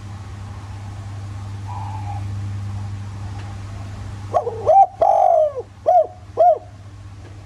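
Spotted dove cooing: a phrase of short, arched coos with one longer note in the middle, starting about halfway through. A steady low hum runs underneath.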